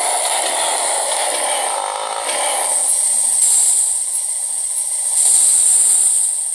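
Yamaha Lander motorcycle engine running as the bike sets off, with a steady high hiss over it that swells twice.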